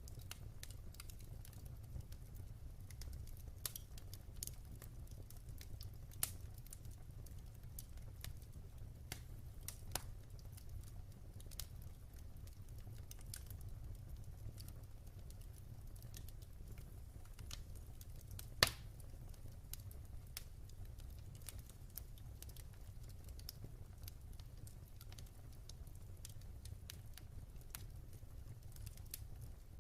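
Wood fire burning in a fireplace: irregular crackles and small pops over a low steady rumble, with one sharp, louder pop about two-thirds of the way through.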